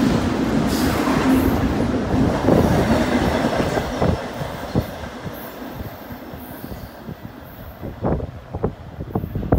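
Freight train cars rolling past on the rails, a dense rumble of wheels that fades steadily as the train moves away. A few sharp clicks come near the end.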